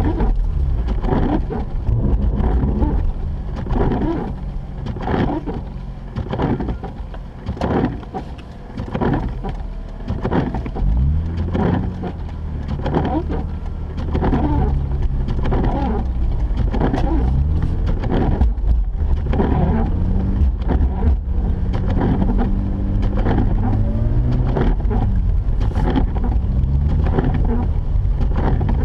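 Mazda RX-8 being driven: its twin-rotor rotary engine and the tyre and road noise are heard from inside the car. The engine pitch rises a couple of times as it picks up speed, and the sound is louder and steadier in the second half.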